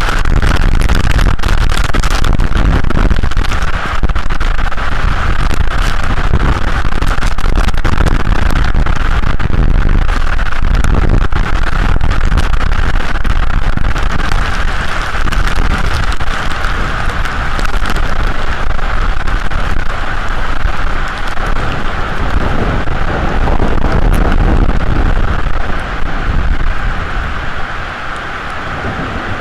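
Storm wind buffeting the microphone with rain: a loud, steady rushing rumble with crackling hiss, easing a little near the end.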